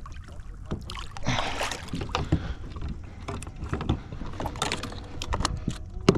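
Irregular knocks, thumps and clatter on a fishing kayak as a freshly landed big redfish is handled, with a brief rush of noise about a second in.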